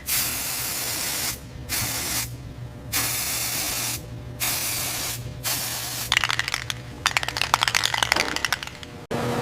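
High-pressure spray hissing in four bursts of about a second each, with short breaks between them, followed by about three seconds of dense crackling and rattling that stops abruptly near the end.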